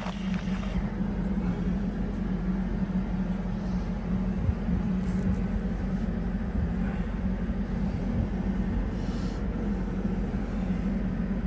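Steady engine drone at constant speed, with a low hum that holds level throughout.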